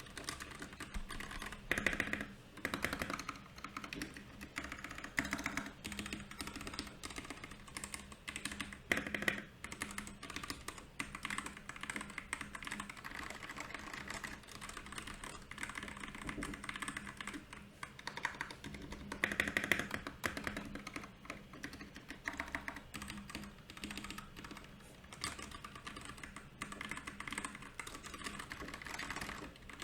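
Mechanical keyboard, a Royal Kludge RK68, being typed on continuously: a steady stream of key clicks and clacks, with a few louder flurries of keystrokes.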